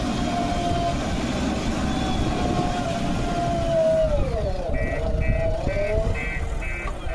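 Diesel engine of earth-moving machinery running under load, its pitch dropping and recovering about four seconds in. From about five seconds in a reversing alarm beeps about twice a second.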